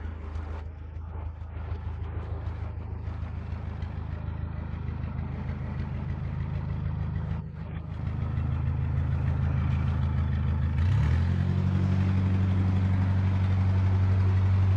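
Narrowboat's diesel engine running at low revs. About halfway through it opens up, and a little later its pitch glides up and holds higher.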